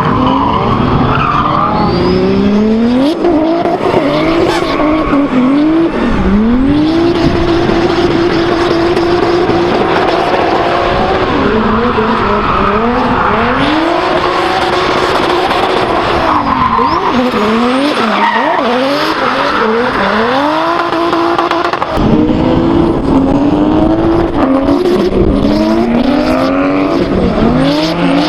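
Toyota 2JZ-GTE turbocharged inline-six drift engine revving hard, heard from inside the car: the revs climb, hold flat for a few seconds at a time, drop and climb again, over and over, with tyres squealing through the slides.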